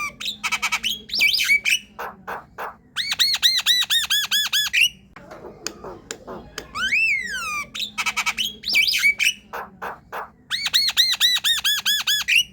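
Javan myna singing: a whistled note that rises then falls, a quick run of clicks and squawks, then a fast string of about a dozen identical harsh notes. The same phrase comes round twice.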